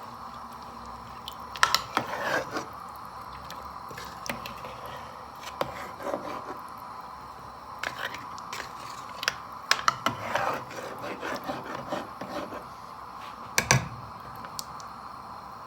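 Scattered clicks and knocks of kitchen handling, such as a spoon or pot being moved, over a steady hiss.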